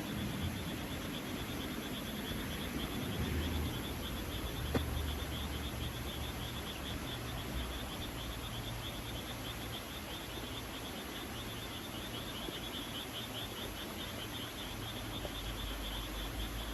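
Insects chirping in a steady, rapid high-pitched trill, with a low rumble underneath and a single click about five seconds in.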